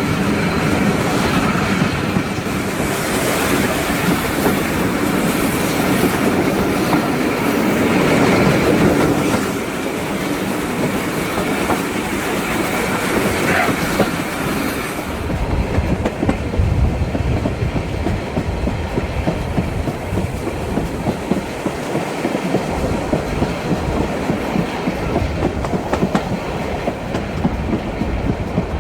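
A steam-hauled train running along the track, its wheels clattering over the rails with a steady clickety-clack. About halfway through, the high hiss drops away and a lower, pulsing rhythm comes forward.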